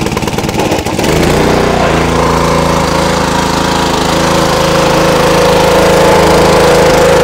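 Small gasoline engine of a pressure washer, just started: it runs roughly for about a second, then picks up speed and settles into a steady, loud run.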